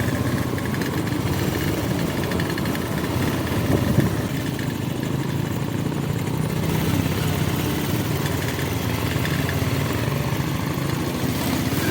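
Motorcycle engine running steadily at low revs, with a brief swell about four seconds in.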